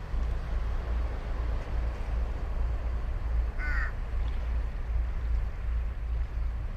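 A crow caws once, briefly, a little past the middle, over the steady low rumble of surf and wind on the microphone.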